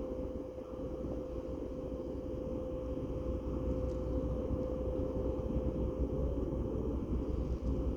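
Ferry's engines running with a steady low drone and a constant hum, slowly growing louder as the ship comes into port.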